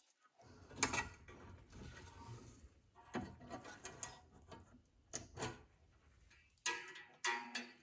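Hands working with parts and tools: irregular clicks and knocks with some rubbing and scraping in between.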